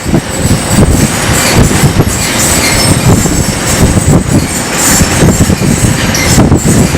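Loose metal roofing sheets rattling, clanging and screeching in the wind, a continuous irregular clatter of metal on metal with some thin, high squeals.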